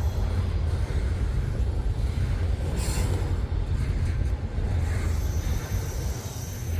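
Freight train rolling past with a steady low rumble of the cars on the rails, and a brief clank about three seconds in.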